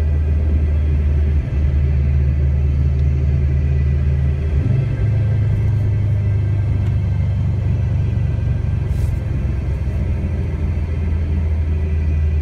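Subaru WRX's turbocharged flat-four engine running at a cruise, a deep steady drone heard from inside the cabin, its note shifting about a third of the way in.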